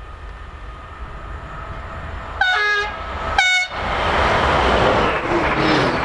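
Stadler Class 755 bi-mode multiple unit running on diesel power, approaching with a rumble that grows louder. It sounds two short horn blasts about two and a half seconds in, then passes close with loud wheel and engine noise.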